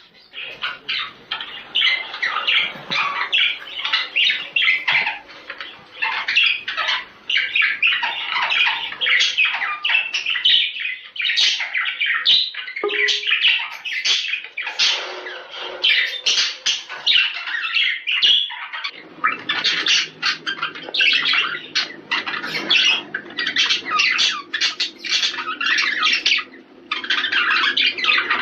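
Budgerigars chattering and warbling in a dense, continuous stream of chirps and squawks: the budgie chatter played to stimulate pairs to breed.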